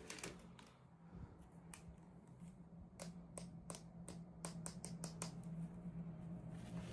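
Light clicks and taps from hands handling small plastic pieces and packaging during an unboxing, a quick run of them about halfway through, over a low steady hum.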